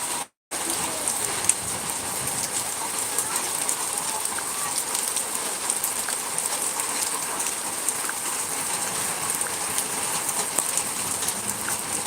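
Rain and hail falling together: a steady hiss scattered with many small ticking hailstone impacts. The sound cuts out for a moment about half a second in.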